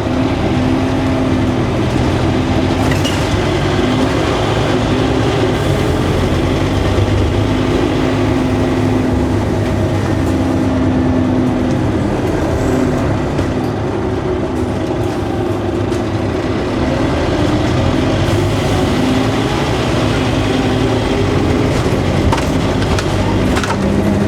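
Scania N230UD OmniCity double-decker bus under way: its engine and ZF gearbox run steadily, the engine note rising and falling several times with changes in speed and gear.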